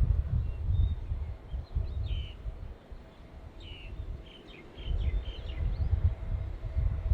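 Small birds chirping in short calls, a cluster about a second in and another around the middle, over an uneven low rumble.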